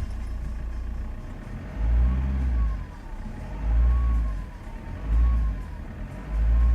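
Opel Z19DTH 1.9 CDTI four-cylinder turbodiesel idling, then revved in four short blips. A thin whistle rises and falls in pitch with each rev; this whistle is the fault being shown.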